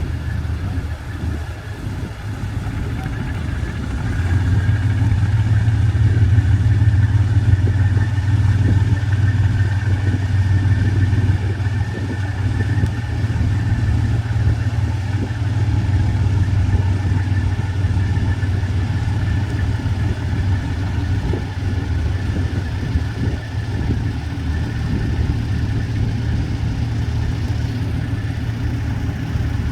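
Fast passenger ferry's engines running with a steady low drone that grows louder about four seconds in and then holds.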